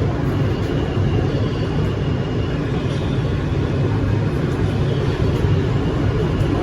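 New York City subway train running between stations, heard from on board: a loud, steady rumble of wheels and running gear, with a faint high whine in the first half.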